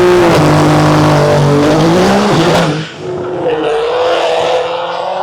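A Nissan GT-R and a 5.0 V8 car launching and accelerating hard down the drag strip, engines at full throttle. The engine pitch holds high, drops briefly just under three seconds in, then climbs steadily again as the cars pull away through the gears.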